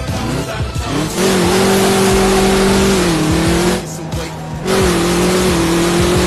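Ram TRX's supercharged V8 engine held at high, steady revs, starting about a second in, cutting out briefly around four seconds in and then coming back on at the same pitch.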